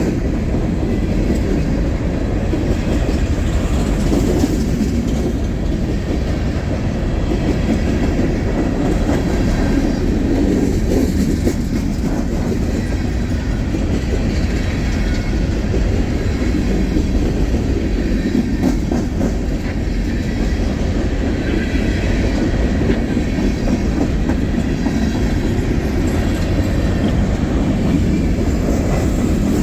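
Freight train rolling steadily past, the wheels of its cars running on the rails with an even, unbroken rumble.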